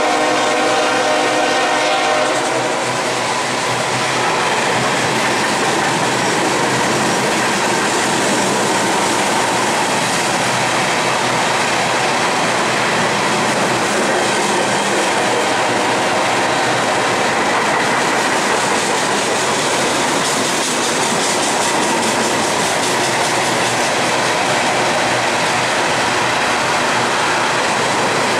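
Freight locomotive horn sounding a chord that cuts off about two seconds in, over the steady rolling rumble and rattle of an empty coal train's open hopper cars passing on the rails.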